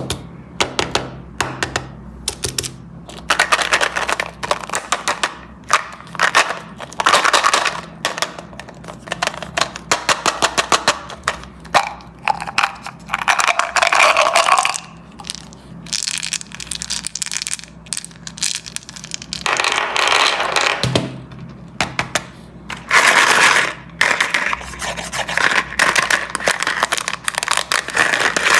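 Handfuls of candies pouring and clattering against one another in repeated bursts of a second or two, with scattered clicks and taps between them.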